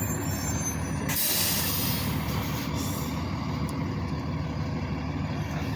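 School bus engine running with a steady low rumble. About a second in, a burst of air-brake hiss comes in and fades over the next two seconds.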